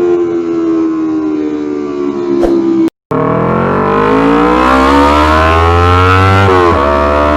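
Yamaha R25's parallel-twin engine through a loud Racefit Slash aftermarket exhaust: the revs sink slowly with a single click. After a momentary cut, the engine pulls steadily up to high revs, dips sharply once near the end and holds high again.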